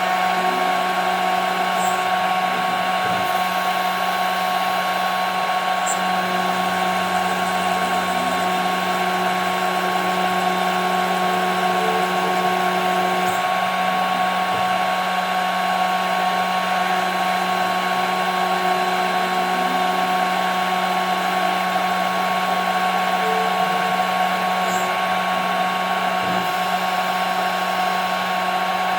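CNC router spindle running steadily as it mills 5 mm plexiglass, a constant whine over the hiss of the cut, with a fainter lower tone that comes and goes every few seconds.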